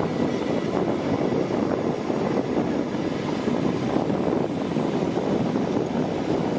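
Heavy diesel earthmoving machinery running steadily with a dense, rapid rumble.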